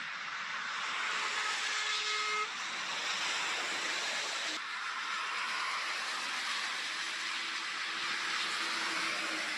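A truck driving by: steady engine and road noise, with a brief steady tone about two seconds in and an abrupt change about halfway through.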